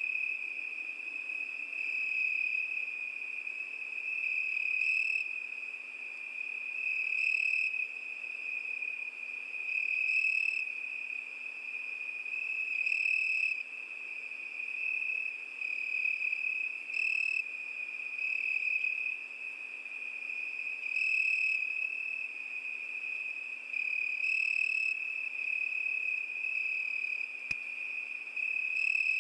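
Crickets singing: a steady, high, unbroken trill that swells louder every few seconds.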